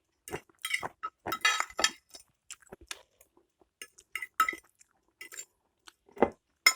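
Eating utensils clinking and clicking against a bowl as noodles are eaten, in a string of short, irregular clinks.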